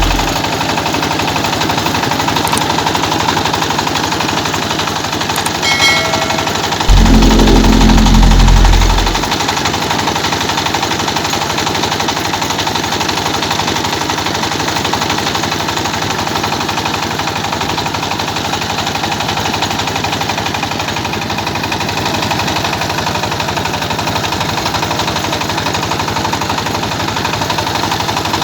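Village rice milling machine running with a fast, steady mechanical clatter. A loud low hum swells in for about two seconds, a quarter of the way through.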